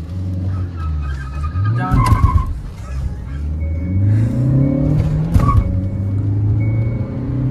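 Manual diesel compact SUV's engine heard from inside the cabin. It is held at revs on the line, then launches hard about two seconds in and accelerates with a rising engine note, with a gear change about five seconds in before it climbs again.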